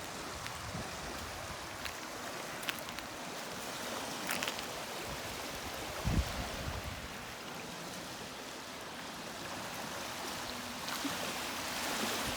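Small lake waves washing steadily on a pebble and shell beach, with a few light crunches and a brief low thump about six seconds in.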